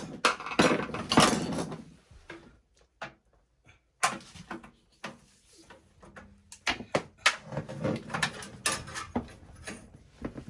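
Irregular clicks, knocks and rustling from handling a long lighter and the pilot control at a gas water heater's burner access, with a dense stretch of rustling early on and a quiet pause about two to four seconds in.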